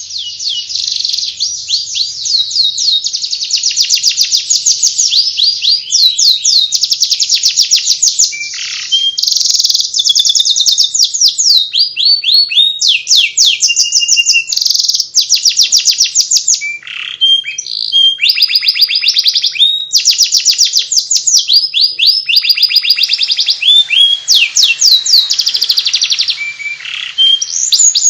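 Domestic canary singing its continuous chattering 'ngeriwik' song: long runs of fast, high repeated notes and trills with only brief pauses.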